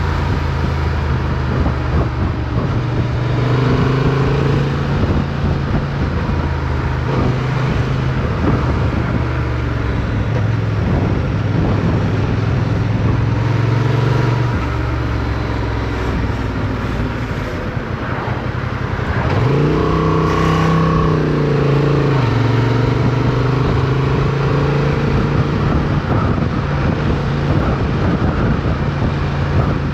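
Motorcycle engine running under way, heard from on board, with steady wind noise. The engine note eases off for a few seconds past the middle, then revs rise sharply about twenty seconds in as the bike accelerates, and it settles back to a steady note.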